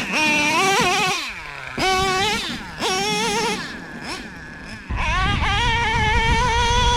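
Traxxas Revo 3.3's O.S. .21 two-stroke nitro engine revving up and down in short bursts, then held at high revs as a steady, slightly wavering whine from about five seconds in.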